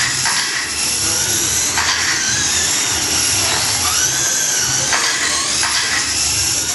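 Radio-controlled short course trucks racing, their motors giving high whines that rise and fall in pitch and overlap as the trucks speed up and slow down, with a few short clatters.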